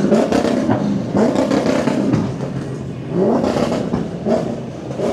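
A car engine revved again and again, each rev a short rising sweep in pitch, about once a second, amid the noise of a crowd of cars.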